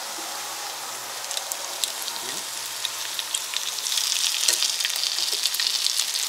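Potato pancakes sizzling and crackling in hot ghee in a frying pan, a steady hiss full of small pops that gets louder about four seconds in.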